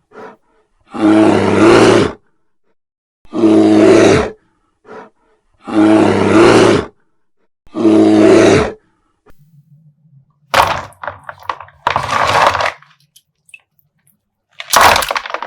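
A bear roar sound effect repeated four times, each roar lasting about a second. It is followed by crackling and tearing of a plastic slime bag being popped and ripped open, with one more loud crackle near the end.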